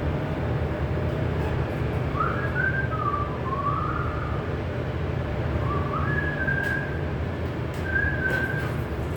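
A person whistling a short, wandering tune of a few gliding notes, starting about two seconds in, over a steady low rumble.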